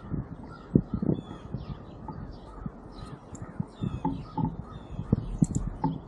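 Wild birds calling: many brief high chirps and a few short harsh calls, with soft low knocks scattered through.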